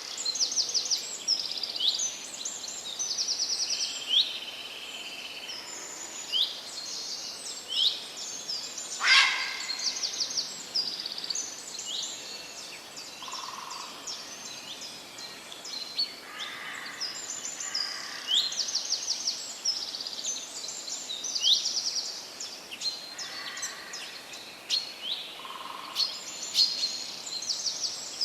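Several songbirds singing and calling over one another: many quick high chirps and rapid trills, with one louder, sharper call about nine seconds in, over a faint steady hiss.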